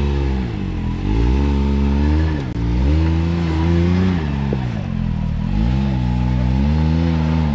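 Can-Am Maverick X3 side-by-side's turbocharged three-cylinder engine revving up and down over and over, working under load on a rough rock climb.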